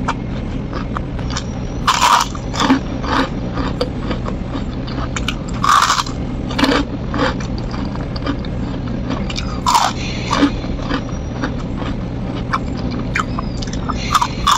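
Close-up crunching and chewing of a crispy, lacy fried cracker, with irregular crackly bites and a few louder crunches spread through.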